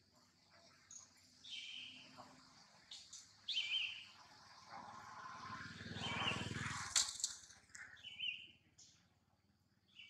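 A bird chirping: short high calls repeating about every two seconds. A louder rushing noise swells in the middle, with a sharp click about seven seconds in.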